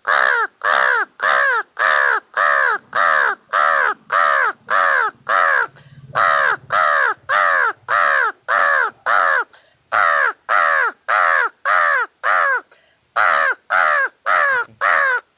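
A man imitating a crow with his voice: a long, fast string of loud cawing calls, about three a second, each call falling in pitch, in four runs with short breaks between them.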